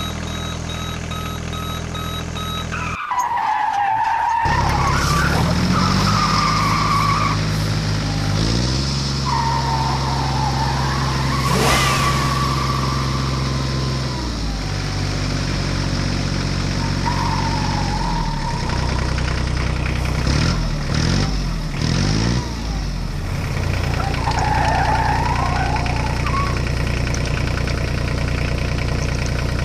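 Electronic toy-vehicle sound effects: a repeating beep for about the first three seconds, then a steady low engine hum that shifts pitch a few times, overlaid by several wavering tyre-squeal sounds.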